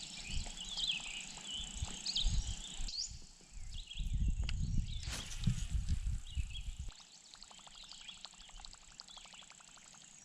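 Songbirds chirping and trilling, with low rumbles and knocks close to the microphone for most of the first seven seconds. Near the end comes a fast, even ticking, about ten ticks a second.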